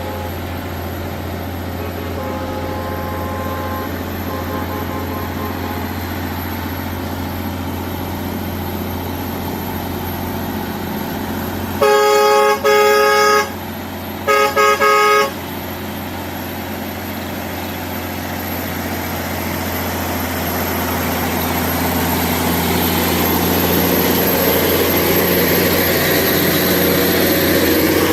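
Heavy truck engine running steadily, with two blasts of a vehicle horn about twelve seconds in: one longer blast, then a second broken into quick toots. After the horn, the engine noise grows steadily louder toward the end.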